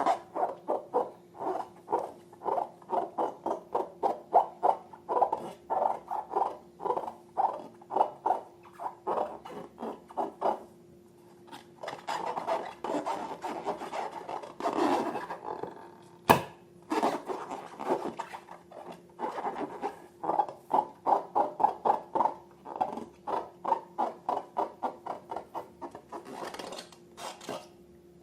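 Slime being mixed and worked: rhythmic sticky squishing and rubbing strokes, about three a second, with a short pause near the middle. A single sharp click comes about two-thirds of the way through.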